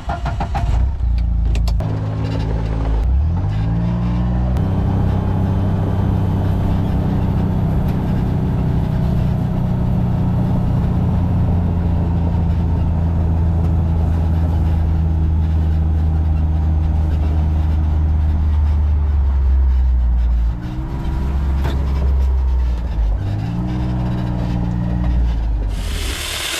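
A motor vehicle's engine running steadily, revving up a few times and easing off, as when driving along. A brighter, rougher noise takes over near the end.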